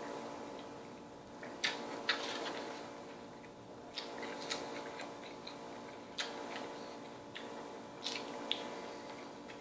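Someone eating a big sandwich as fast as they can: irregular sharp mouth clicks and smacks while chewing, about one every second or two, over a steady hum.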